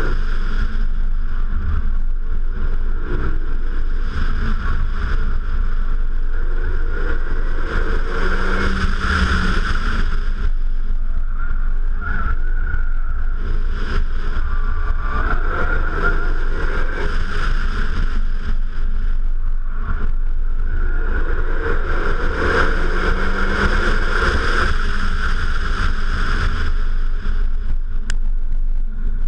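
Renault Megane RS 265 Trophy's turbocharged 2.0-litre four-cylinder driven hard around a tight track, swelling louder in three spells of acceleration, about eight, fifteen and twenty-two seconds in. Heard from outside on the car's flank, with heavy wind rumble on the microphone under it.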